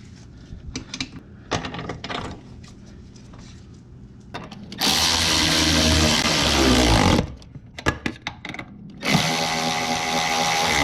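Power tool run twice for about two seconds each, winding down at the end of the first run, while the slip-on mufflers are bolted onto the motorcycle. Light clicks of parts and tools being handled come before and between the runs.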